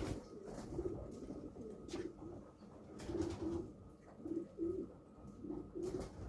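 Racing pigeons cooing in short repeated phrases, often in pairs, with a few sharp knocks in between.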